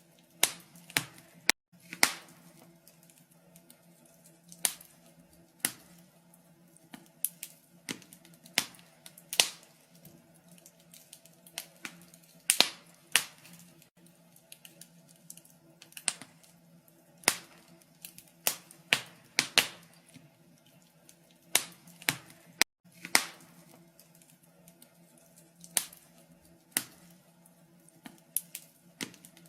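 Wood fire crackling in a fireplace: irregular sharp pops and snaps, roughly one or two a second, over a faint steady low hum.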